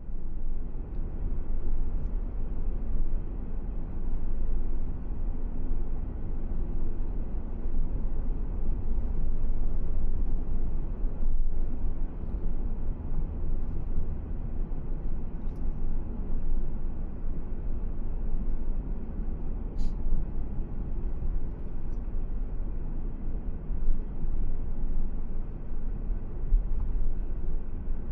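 Steady low rumble of a car driving along a road: engine, tyre and wind noise.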